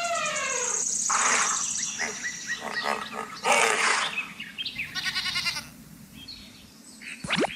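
A series of animal call sound effects, one after another: a pitched call that bends downward about a second in, then harsher noisy calls and a fast stuttering call, quieter for a moment, and a quick sweeping whistle just before the end.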